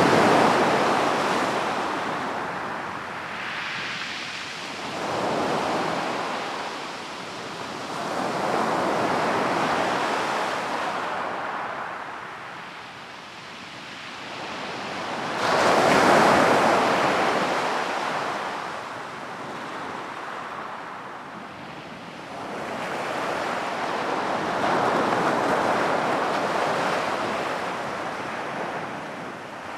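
Sea waves breaking on the shore and washing back, swelling and fading in slow surges every several seconds. The loudest wave breaks with a sudden rise about halfway through.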